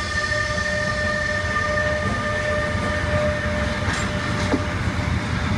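A train running through the station, a steady low rumble with a steady high pitched tone that fades away about three and a half seconds in.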